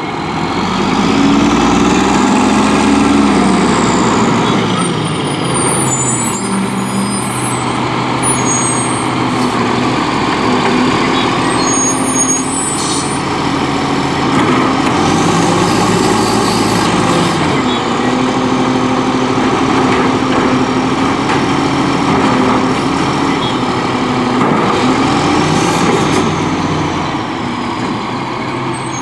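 Volvo WXLL garbage truck with a Labrie Expert 2000 body, its diesel engine revving up and dropping back several times, every six to ten seconds. This is the way a refuse truck's engine speeds up to drive its hydraulics.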